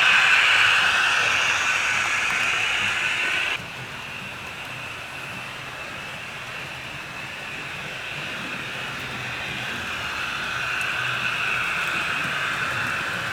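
HO scale model train running on the layout: metal wheels rolling on the track with the hum of the electric motor. The sound drops off suddenly about three and a half seconds in, then slowly swells again as a train comes closer.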